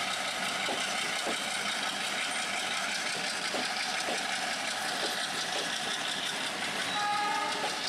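Passenger coaches rolling past, a steady rumble with the wheels clicking over the rail joints at irregular intervals. A short pitched tone sounds about seven seconds in.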